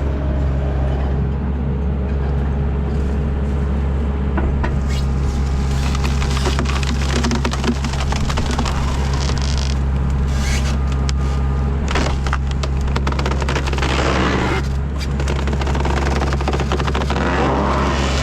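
Diesel engine of a TL10 compact track loader running steadily under hydraulic load, with irregular cracking and scraping of wood and brush as the skid-steer tree shear cuts and handles oak trees.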